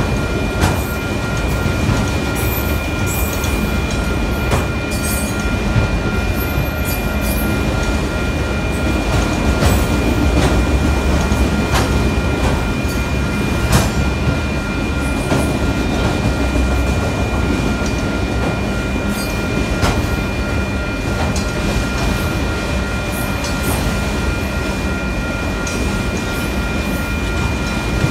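Freight train of autorack cars rolling steadily through a grade crossing: a low rumble with irregular clacks from the wheels. A steady high ringing tone runs over it throughout.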